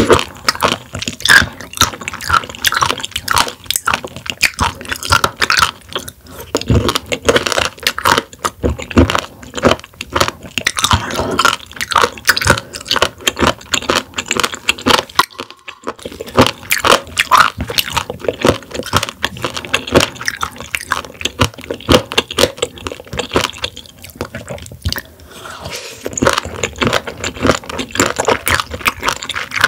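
Close-miked chewing of raw warty sea squirt (Styela plicata): a dense run of quick, wet clicks as it is bitten and chewed, with a brief pause about halfway through.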